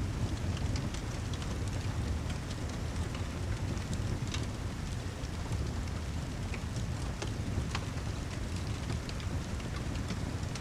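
Steady heavy rain with a deep low rumble underneath and many scattered sharp ticks and crackles, as from drops striking or a fire crackling.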